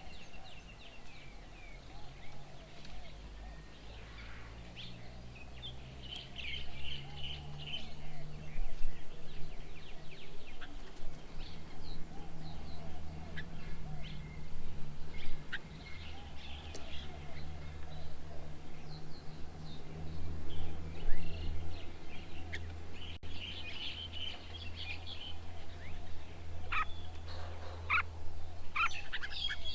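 Birds calling and chirping at a garden bird table: short, scattered calls, busier in a few spells, over a steady low hum.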